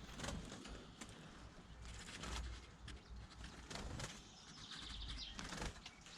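Faint chirping of small aviary finches, with scattered soft clicks and a short run of rapid high chirps near the end.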